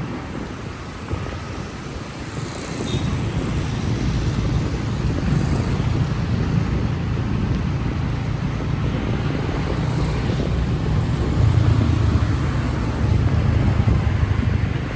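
A motor vehicle running, with a steady low rumble, road noise and some wind on the microphone, growing louder about two seconds in.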